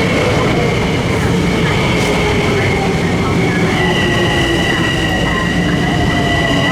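Passenger train running past close by: a loud, steady rumble of wheels on rail, with high whining tones over it and a lower tone that slowly falls in pitch.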